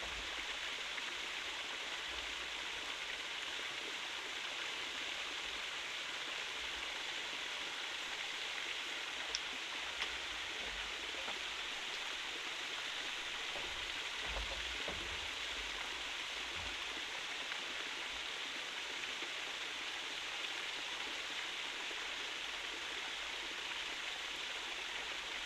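Steady hiss of water, even throughout, with a couple of faint clicks around ten seconds in.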